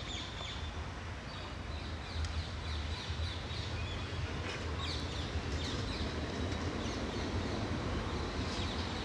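Small birds chirping repeatedly over a steady low rumble, while a horse crops and chews grass.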